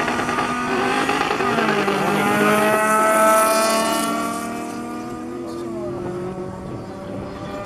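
Two race car engines, a Honda Civic hatchback's and a BMW E30's, launching and accelerating hard. The revs climb, drop back at a gear change about a second and a half in and again near the end, then climb again. The sound is loudest about three seconds in and fades as the cars pull away.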